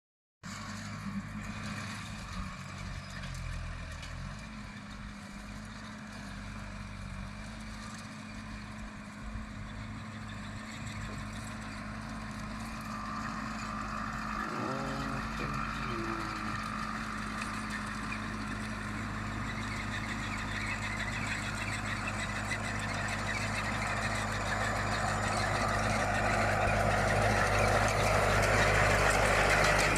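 Tractor engine running steadily under work while gathering cut grass, getting gradually louder as it comes closer, with rattling machinery noise building over the last third.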